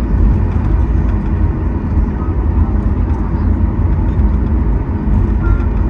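Steady low rumble inside the cabin of a Boeing 737 MAX 8 taxiing on the ground, its CFM LEAP-1B engines running at taxi power under an even cabin hiss.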